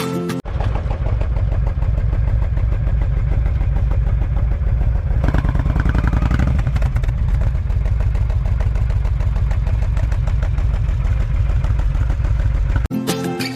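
Motorcycle engine running steadily, with a brief rise in tone around the middle; it cuts in and out abruptly.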